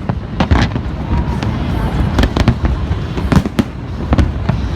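Aerial fireworks bursting in quick, irregular succession, several sharp bangs a second over a continuous low rumble of shells going off.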